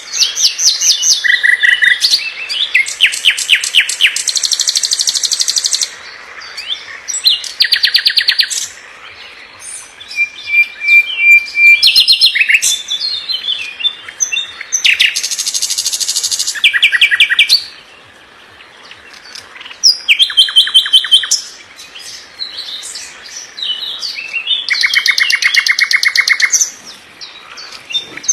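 A songbird singing a varied song of high, rapid trills and chirps, in phrases of a second or two with short pauses between them.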